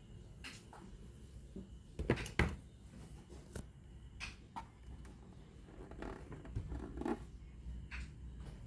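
Handling noise from repair work on a radio-cassette: scattered clicks and knocks, the loudest pair about two seconds in.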